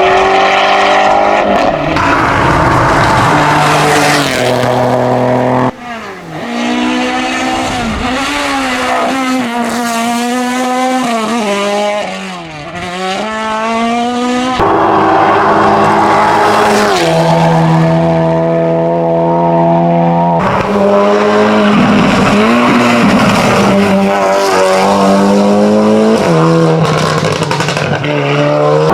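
Hillclimb race cars driven hard, engines revving up and down through the gears as they pass, with some tyre squeal. The sound changes abruptly several times as one car's run gives way to another's.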